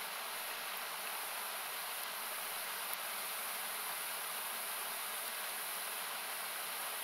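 Steady hiss of a nearby rushing river or small waterfall, equalized so it sounds like even noise. A single sharp crackle from the wood fire about three seconds in, with a fainter one shortly before.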